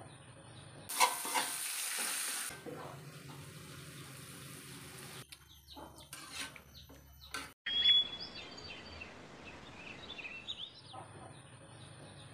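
Short kitchen clips cut together. About a second in, food sizzles loudly in hot oil. Later a metal spatula scrapes and stirs food in a wok, and small birds chirp toward the end.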